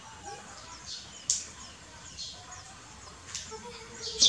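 Small birds chirping repeatedly in short high-pitched notes. A few sharper, louder high-pitched sounds stand out about a second in, around three seconds in and, loudest, near the end.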